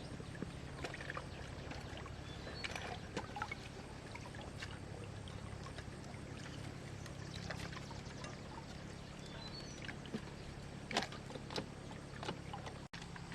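Water sloshing and trickling, with scattered small splashes and knocks, over a steady low hum.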